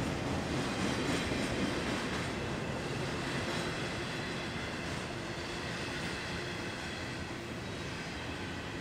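BNSF double-stack intermodal train's container well cars rolling past, a steady noise of steel wheels on rail with faint clacking, easing slightly in loudness toward the end.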